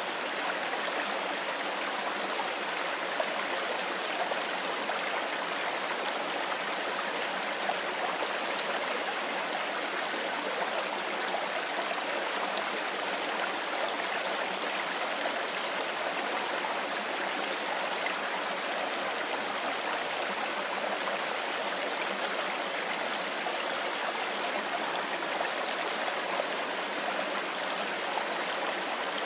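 Mountain stream flowing over stones: a steady rushing and babbling of water that does not change.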